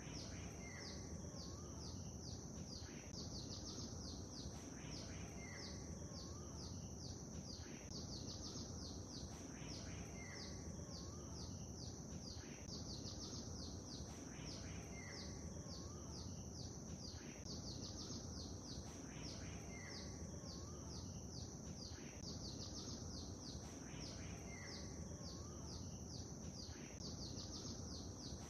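Small birds chirping rapidly, with the same few calls recurring every few seconds, over a steady low wash of lake water.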